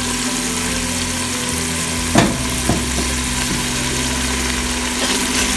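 Beef tikka masala frying in its separated oil in a metal pot, a steady sizzle, with a single knock about two seconds in.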